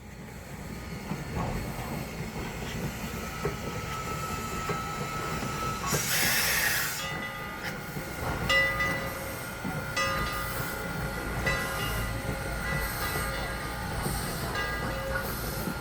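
1924 Baldwin 2-6-6-2T Mallet tank steam locomotive running, with a loud burst of hiss about six seconds in. After it come steady high squealing tones and scattered metallic clanks from the wheels and running gear.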